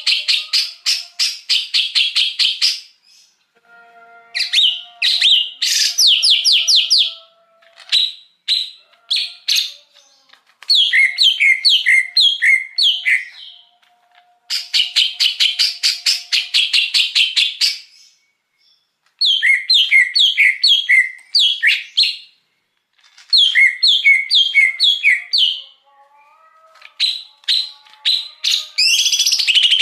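Green leafbird (cucak hijau) singing in phrases a few seconds long with short pauses between. Bursts of rapid, dense chattering trills alternate with phrases of separate notes that slur downward, about two to three a second.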